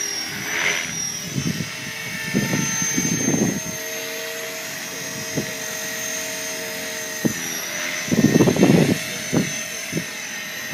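Blade 450 3D electric RC helicopter in flight, its motor and rotor whine holding a steady pitch that shifts up and down as it manoeuvres. Wind buffets the microphone in gusts twice, a few seconds in and again near the end.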